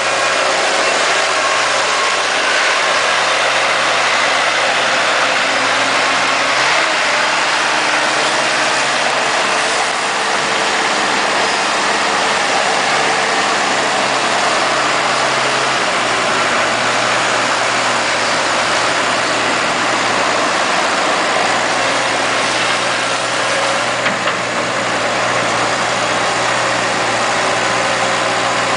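Gehl 7810 skid steer's Perkins turbo diesel running steadily, its note shifting slightly about seven seconds in and again around sixteen seconds.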